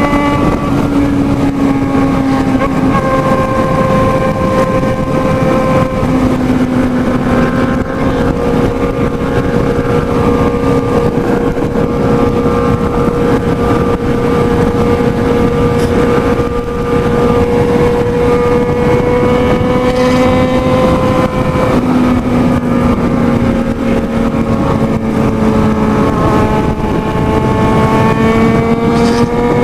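Motorcycle engine running hard at high speed, its note holding high with a few small dips and rises in pitch.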